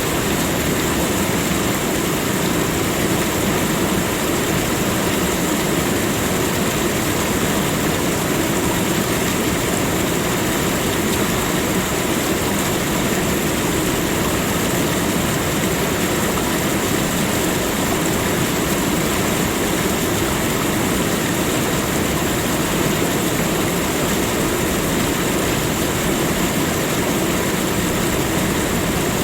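Steady rushing water, an even, unbroken noise with no distinct splashes or changes.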